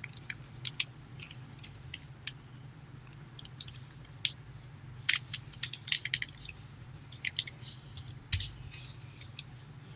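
A sheet of paper crinkling and crackling in short, irregular bursts as it is pressed and folded along its existing creases, busiest in the middle of the stretch. A steady low hum runs underneath.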